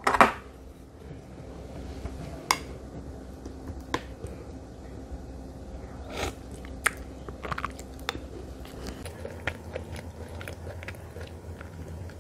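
Close-miked mukbang eating sounds: a person biting and chewing food, with sharp crunches and wet mouth clicks every second or two. A faint steady hum underneath stops about nine seconds in.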